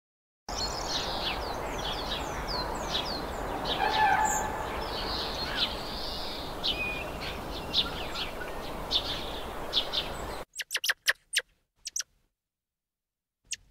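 Many small birds chirping, with quick high downward-sliding calls over a steady outdoor background hiss. The sound cuts off abruptly about ten seconds in. A quick run of short, sharp high chirps follows, and one more comes near the end.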